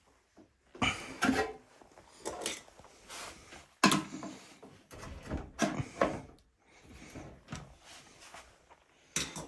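Plastic panels and parts of a washing machine being pulled loose and handled: a series of irregular knocks, scrapes and clatters, the sharpest knock about four seconds in.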